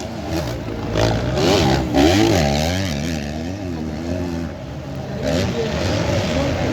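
Motocross bike engines racing on the track, revving up and down in quick swells.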